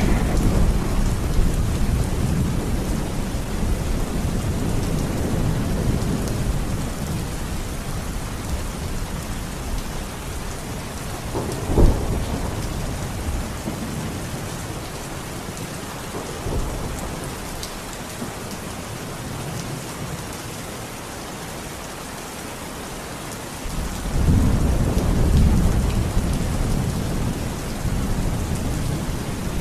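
Steady rain with rolling thunder. A rumble dies away over the first several seconds, a sharp clap of thunder comes about twelve seconds in, and a deep rumble builds up again near the end.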